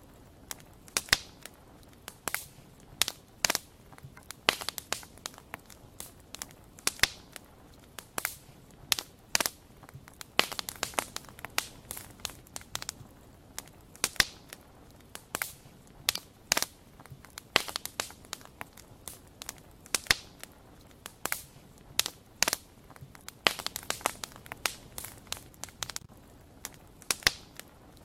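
A wood fire crackling, with irregular sharp pops and snaps.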